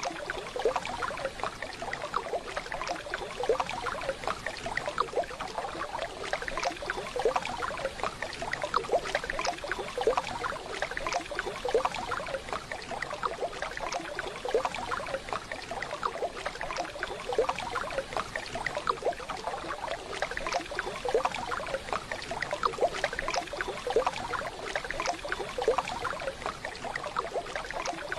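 Waterfall: a steady rush and splash of falling water, unbroken throughout.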